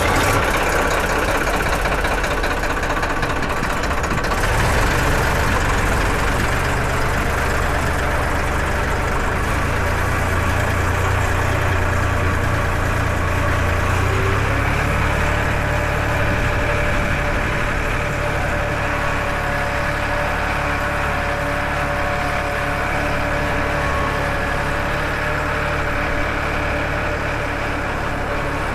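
Farmtrac 60 tractor's diesel engine running at a steady idle just after starting.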